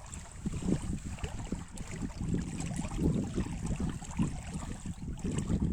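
Uneven low rumble of wind and water, with irregular soft gusts or slaps.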